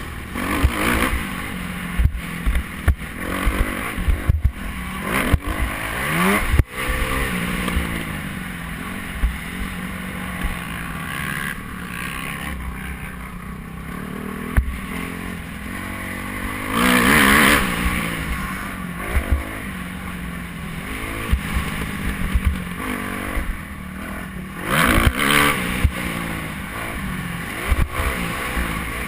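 Motocross bike engine revving up and easing off again and again, with louder surges past the middle and near the end. Frequent short low thumps and knocks run through it.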